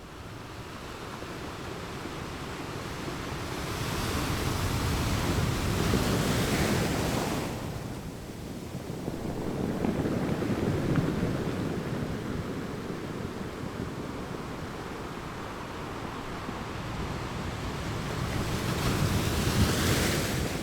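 Ocean surf: waves breaking and washing up the beach in slow swells. The loudest surges come about five seconds in and again near the end, with a smaller one in between.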